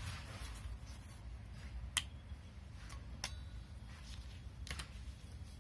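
A few sharp clicks and taps of hand tools and loose engine parts being handled, about four in all, with a pair close together near the end, over a low steady background rumble.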